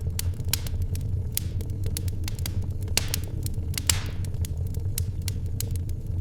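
Wood fire in a fireplace crackling, with irregular sharp pops over a steady low rumble; one louder pop with a short hiss about four seconds in.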